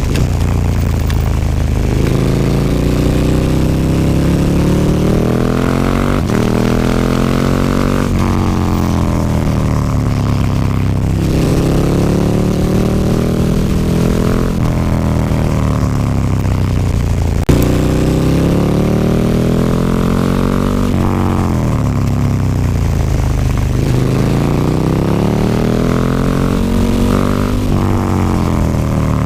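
KTM 1290 Super Duke R's V-twin engine breathing through an Akrapovic slip-on exhaust, revving up and dropping back again and again as the bike is ridden. There is one sharp click a little past halfway.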